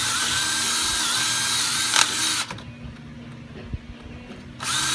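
Electric drill running at speed with a wavering motor whine, stopping about two and a half seconds in, then starting again briefly near the end.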